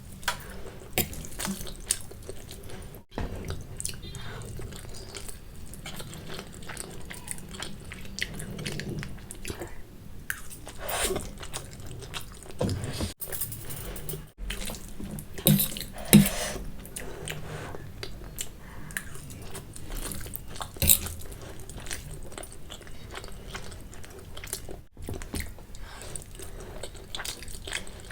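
Close-miked wet chewing and slurping of spicy Maggi instant noodles, a steady run of small moist clicks and smacks with a few louder sharp ones about halfway through and again later.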